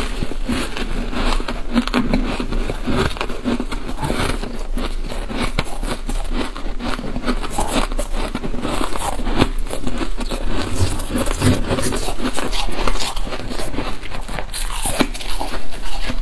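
Freezer frost being bitten and chewed close to the microphone: a dense, continuous run of small crackly crunches.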